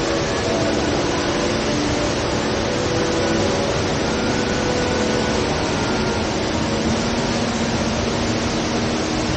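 HSBC Rain Vortex indoor waterfall: a steady, even rush of water falling into its pool.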